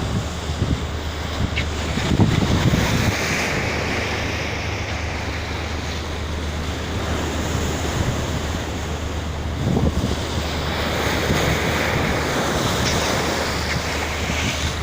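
Sea water rushing and wind buffeting the microphone, in swells about two seconds in and again about ten seconds in, over a steady low hum.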